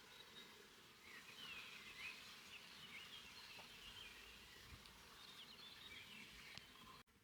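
Faint birdsong: many short chirps and quick up-and-down whistles from small birds over a light hiss of outdoor background noise.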